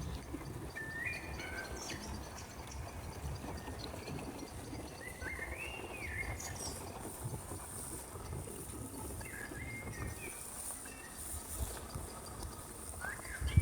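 A small songbird singing three short warbled phrases several seconds apart, over a steady high insect-like hiss in the second half and a low outdoor rumble.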